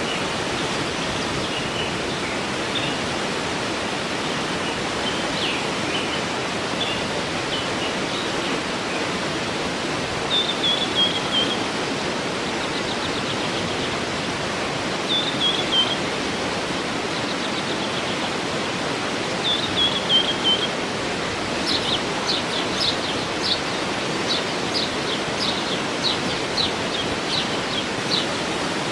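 Steady rush of a waterfall with birds singing over it: short descending chirped phrases every few seconds, then, in the last third, a run of sharp high notes repeated about twice a second.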